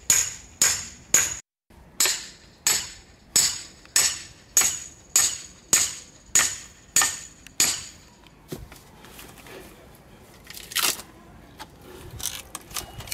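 Rapid, evenly paced tool strikes on a log being split, about thirteen blows roughly every 0.6 seconds, each with a bright metallic ring. Then fainter scattered knocks and one more sharp strike near the end.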